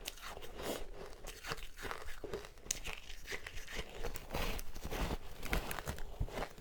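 Close-miked crunching and chewing of powder-coated ice: a dense, irregular run of crisp crunches, getting louder about two-thirds of the way through.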